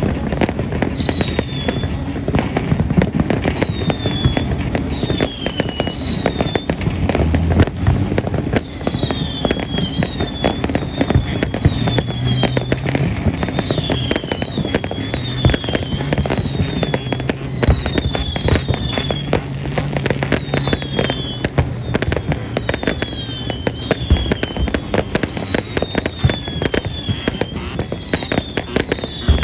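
Fireworks display: a dense run of crackling bangs with many short whistles falling in pitch, over background music.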